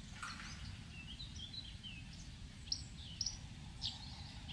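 Small songbird chirping faintly in the background: short high chirps repeating, with a run of quick falling notes about a second in, over low steady room noise.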